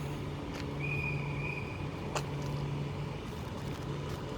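Steady low hum of an Avanti West Coast express train coming through the station without stopping. A thin high tone sounds for about a second early on, and there is a single sharp click about two seconds in. No horn is sounded.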